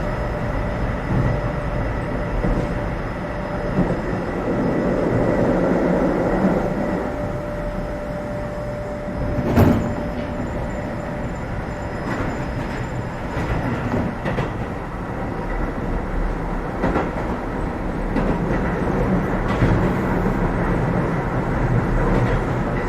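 Keio 7000 series electric train running between stations, heard inside the passenger car: a steady rumble of wheels and running gear with a faint steady whine, scattered clicks, and one sharp knock about ten seconds in.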